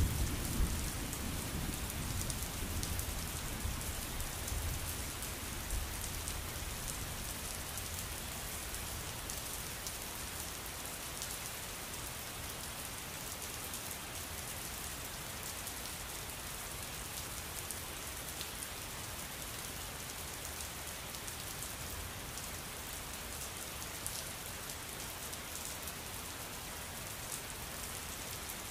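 Steady rainstorm rain falling on a surface: an even hiss with scattered drop ticks. A low thunder rumble dies away over the first few seconds.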